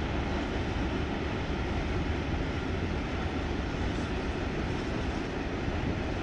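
Freight train of covered hopper wagons rolling across a railway bridge: a steady low rumble that holds its level.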